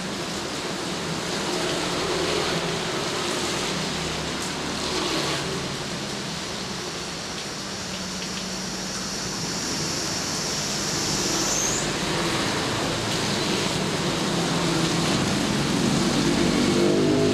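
Steady rain with traffic noise from vehicles on a wet road; a low engine hum grows louder near the end.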